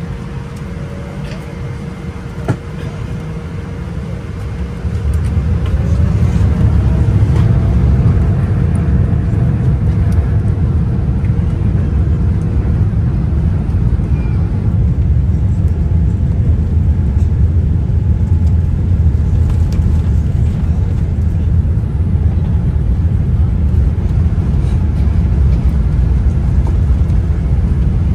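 Airliner cabin noise on the takeoff run. The jet engines spool up about five seconds in with a faint rising whine, then settle into a loud, steady low rumble.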